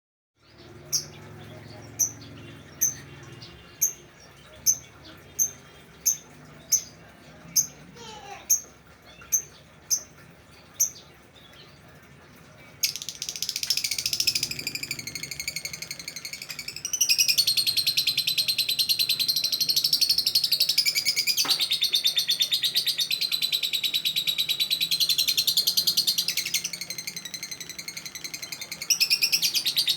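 Lovebird singing. First it gives a string of single sharp chirps, a little under one a second. About thirteen seconds in it breaks into a long, unbroken, rapid trilling chatter, which gets louder at around seventeen seconds: the extended trill that lovebird keepers call ngekek.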